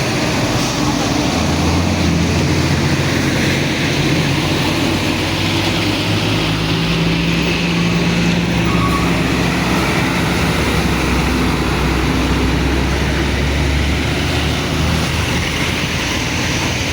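A large vehicle's engine running, a steady low hum whose pitch shifts slowly over a haze of road noise.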